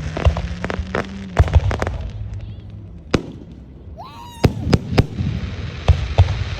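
Aerial fireworks going off: a dense run of crackling pops over a low booming rumble, then a whistling shell whose pitch rises and dips about four seconds in, followed by more sharp bangs.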